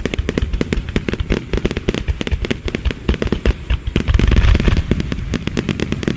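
Fireworks display crackling: a dense, rapid string of sharp pops and crackles from many small bursts, with heavier deep booms about four seconds in.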